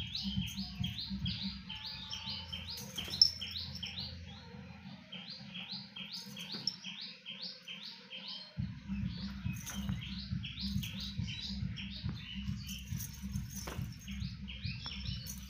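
A bird chirping rapidly and steadily, a run of short falling notes about four to five a second, over a low rumble that drops out for a few seconds midway.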